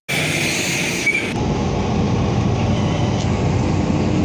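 Steady rumble of a moving vehicle, engine hum and road noise, heard from inside it. It starts abruptly at a cut.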